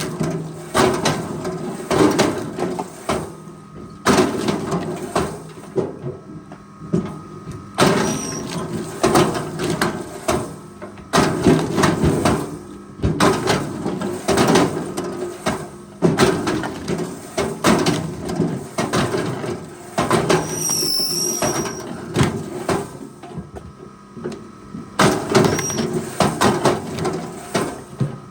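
Forestry machine at work: a steady engine hum under repeated knocks and clunks of wood and metal, with abrupt changes every few seconds where the clips are cut together.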